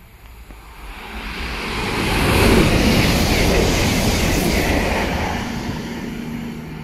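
A CrossCountry Voyager diesel multiple unit passing through the station at speed without stopping. Its rush of wheel and engine noise builds over about two seconds, peaks and then fades slowly as the train goes away, with a steady low hum near the end.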